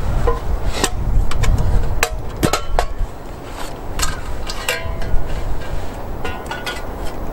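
Metal cookware clinking and knocking a dozen or so times at uneven intervals as it is handled, some strikes ringing briefly, over a low wind rumble on the microphone.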